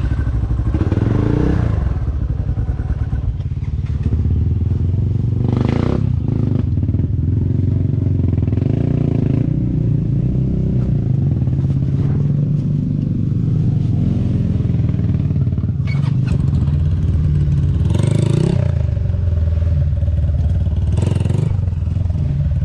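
Dirt bike engine running on a trail ride, its pitch shifting with the throttle, with a few short louder bursts.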